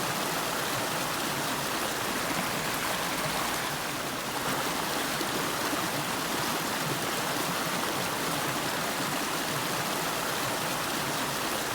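A river running: a steady, even rush of flowing water.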